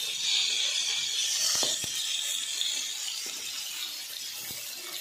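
Parwal (pointed gourds) sizzling as they fry in oil in a kadai, a steady hiss that eases a little after the first few seconds. A few light clicks of the utensil against the pan come through it.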